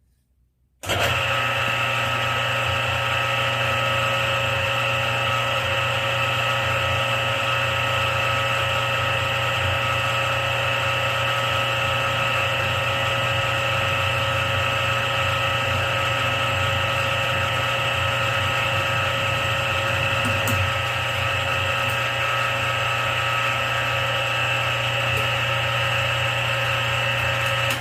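Drilling machine starting up about a second in and running steadily with an even, many-toned whine as it pilot-drills through stacked bracket plates lubricated with cutting oil, stopping at the end.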